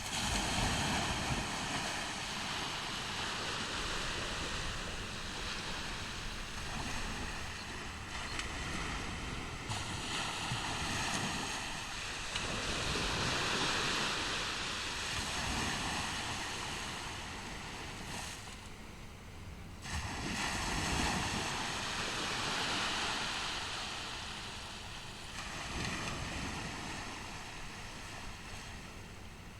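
Ocean surf breaking and washing up a beach, the noise swelling and easing every few seconds as each wave comes in.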